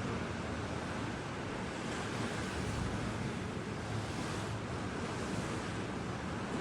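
Ocean surf: waves washing on the shore in a steady, continuous rush.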